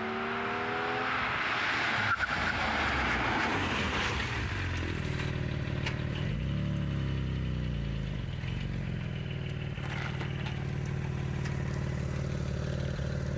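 Porsche 718 Cayman GT4's flat-six engine pulling away with a rising note. This is followed by a few seconds of rushing tyre and road noise, then the engine running steadily at low revs with a brief rise and fall in pitch.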